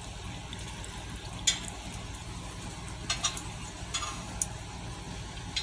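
Bacon sizzling faintly on a pan, with a few sharp clinks of a utensil against metal over a steady low hum.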